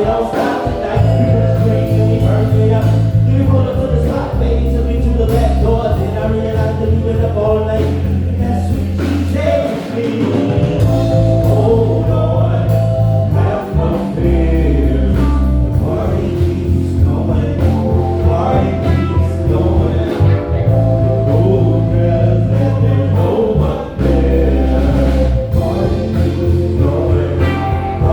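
Live band music: electric bass holding long low notes in a repeating pattern over a steady drum kit beat, with keys and a wavering lead line above.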